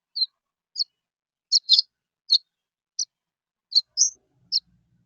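A bird chirping: about nine short, high chirps at irregular intervals.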